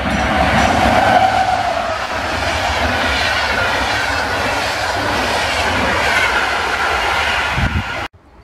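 Locomotive-hauled passenger train passing close by at speed: a loud, steady rush and rumble of wheels on the rails as the coaches roll past. The sound cuts off abruptly near the end.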